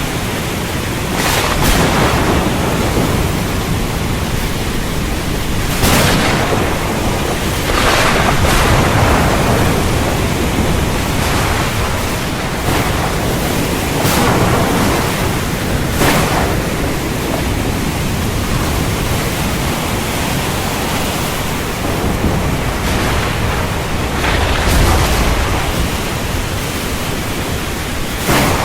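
Heavy rain falling steadily, with thunder rumbling and several brief louder swells every few seconds.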